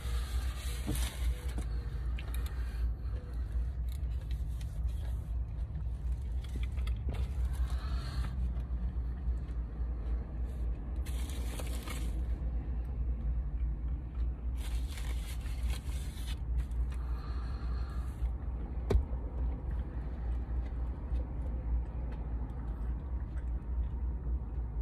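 Chewing a big mouthful of a crunchy burrito (crispy chicken strips, overcooked bacon and crisped tortilla strips). The crunching comes in short crackly bursts every couple of seconds over a steady low hum inside the car.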